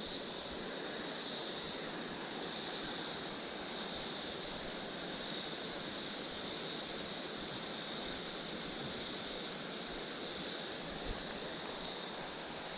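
Creek water running steadily, under a constant high insect drone.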